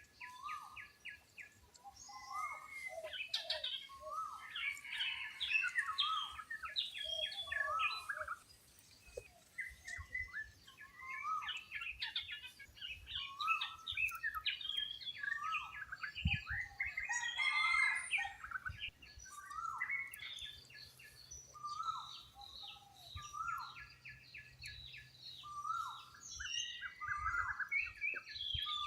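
Many birds calling at once: dense, overlapping short chirps and whistles, thinning briefly about eight seconds in. The calls come from a red junglefowl hen with her chicks and other forest birds.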